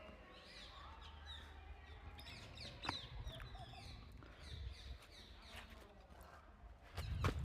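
Birds calling outdoors, many short, quick chirps overlapping one another, over a low steady rumble, with a louder low bump near the end.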